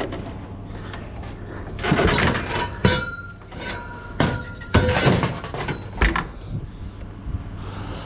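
Scrap metal being handled: a burst of clanking and knocking lasting about four seconds, with one piece ringing briefly in the middle. A steady low hum from an idling vehicle engine runs underneath.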